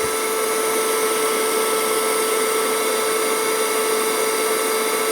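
Battery-powered vacuum cleaner running steadily: an unchanging motor whine over the rush of air being sucked in.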